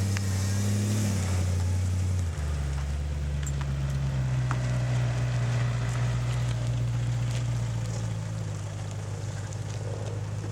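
BMW M3 GTS's 4.4-litre V8 idling steadily, its note shifting to a lower, steadier idle about two seconds in.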